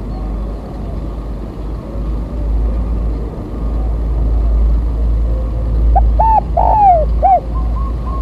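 Spotted dove (tekukur) cooing: a few loud arched notes about six seconds in, then softer repeated notes, over a steady deep rumble.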